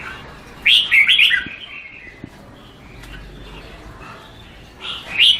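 Red-whiskered bulbul singing: a short phrase of quick, bright whistled notes about a second in, and a second phrase starting near the end.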